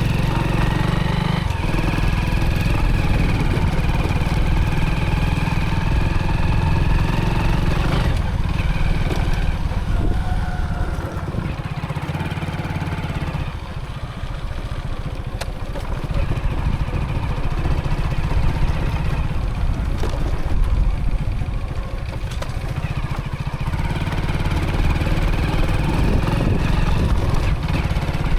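A motorcycle's engine running as it is ridden, mixed with road and wind noise. The engine eases off briefly about halfway through and then picks up again.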